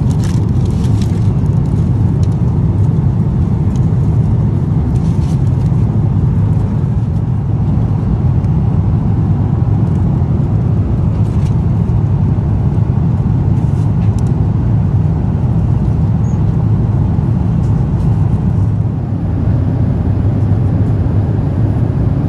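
Steady cabin noise of a Boeing 777-300ER in cruise: a deep, even rush of airflow and engine noise, with a few faint clicks.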